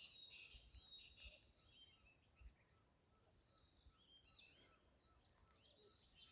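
Faint birdsong: small birds chirping and twittering, busiest in the first second and a half and again about four to six seconds in.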